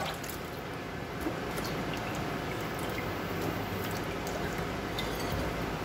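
Wet potato cubes sizzling in hot oil and masala in a non-stick pan: a steady, even sizzle with faint scattered pops.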